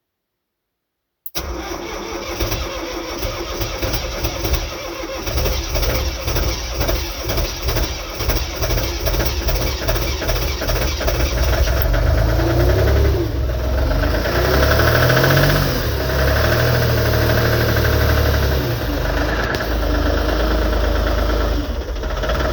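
Diesel engine of an Everun ER08 compact wheel loader cold-started at −18 °C with no glow-plug preheat. It starts up suddenly about a second in and runs rough and uneven at first, then speeds up around the middle and runs steadier.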